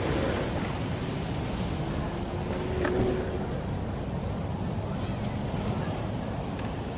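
Steady rushing wind and road noise on the microphone while riding a rental electric scooter, with a faint, evenly pulsing high tone throughout and a brief swell about three seconds in.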